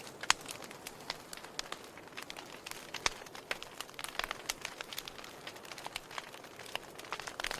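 Wood fire burning in a fireplace, crackling with irregular sharp pops and snaps over a faint steady hiss.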